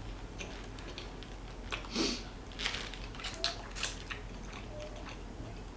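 Close-miked chewing and biting of food: scattered wet mouth clicks and soft crunches, with a brief hum from the eater about two seconds in.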